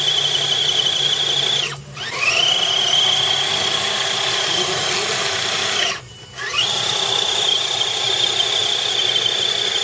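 Small electric motor running at high speed with a steady high-pitched whine, cut off twice and spinning back up each time with a rising whine.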